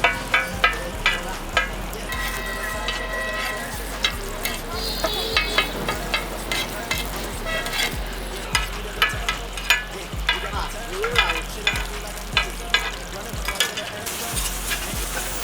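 Keema paratha frying on a hot griddle, with a metal spatula striking and scraping the pan in quick, irregular clinks over a steady sizzle. The sizzle grows louder and hissier near the end.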